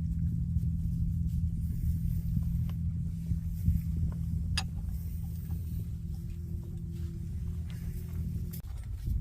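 A motor running steadily at one constant low pitch, which stops shortly before the end.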